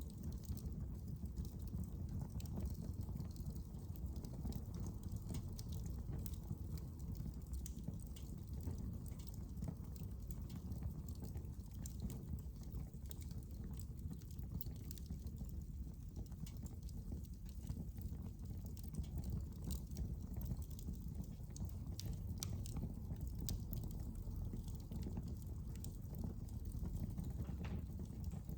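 Wood fire crackling in a fireplace: a steady low rumble with frequent small pops and snaps scattered throughout.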